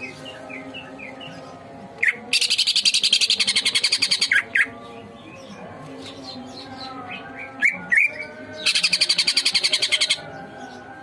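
Greater green leafbird (cucak ijo) song from a bird-training recording: runs of short rising chirps, broken twice by a loud, rapid, harsh rattling trill lasting about two seconds each.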